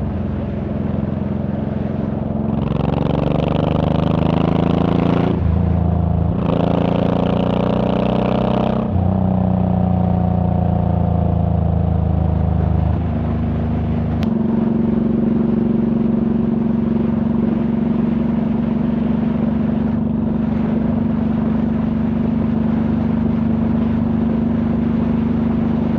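Honda VTX1800's V-twin engine and exhaust under way, heard from the rider's seat: it revs up through a gear, drops briefly for a shift about five seconds in, and pulls up again. After that it eases off and settles into a steady cruise.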